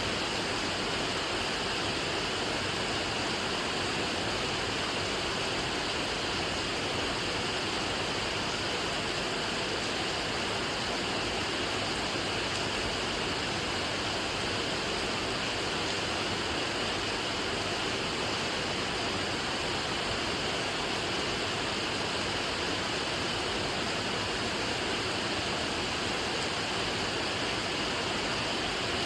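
Steady, even hiss of heavy rain, a dense wash with no single drops or thunder standing out.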